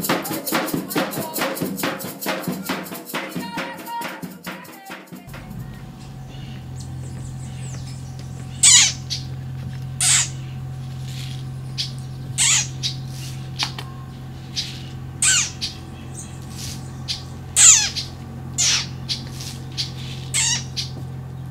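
Folk music with rattling percussion plays for the first few seconds and stops. Then a bird gives repeated harsh, loud squawks, one every second or two, over a steady low hum.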